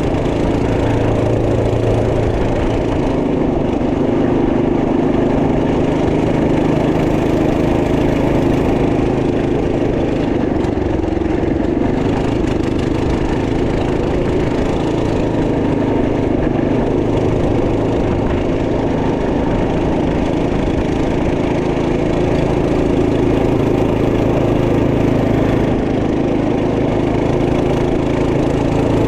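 Trail Master MB200 minibike's 212cc single-cylinder four-stroke engine running steadily under way, its pitch rising and falling slightly with the throttle.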